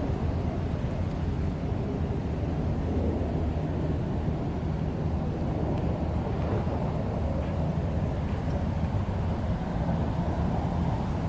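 Steady low rumble of outdoor background noise, with no distinct bird calls standing out.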